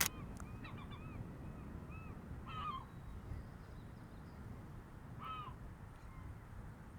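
Crows cawing: a run of short calls, with two louder caws about two and a half and five seconds in, over a steady low outdoor rumble.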